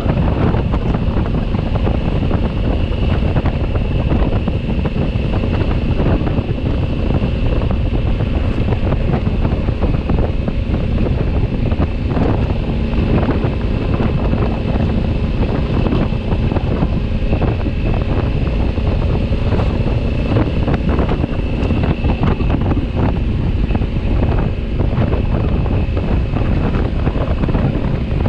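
Heavy, steady wind noise on the microphone from riding a 2020 Honda Africa Twin at speed, with the bike's parallel-twin engine droning steadily underneath.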